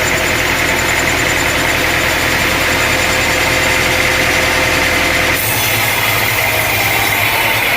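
Sawmill engine running steadily, with a sudden change in tone about five seconds in.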